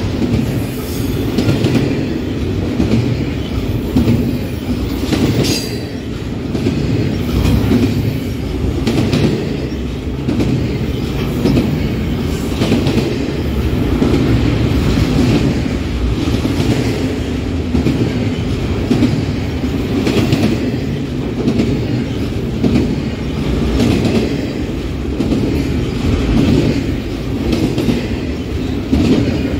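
Freight train cars rolling past steadily, a continuous heavy rumble with the steel wheels clacking over the rail joints.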